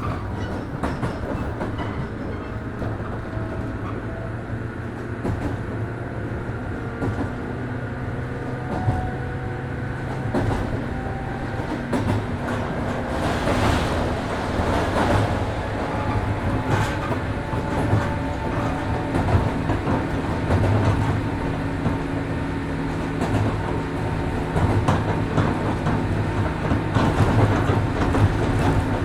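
A 103 series 1500-number electric multiple unit running, heard from inside the car: a steady rumble of wheels on rail with rhythmic clicks over the rail joints. Over it runs a faint traction-motor whine that rises slowly in pitch through the first half.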